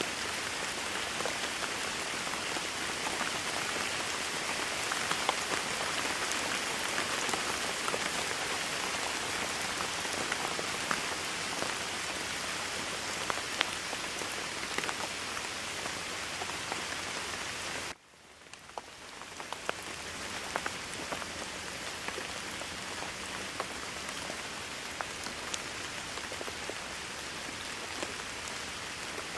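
Steady rainstorm rain falling, with many individual drops ticking close by. About two-thirds of the way through it cuts out abruptly and fades back in over a couple of seconds, a join in the recording.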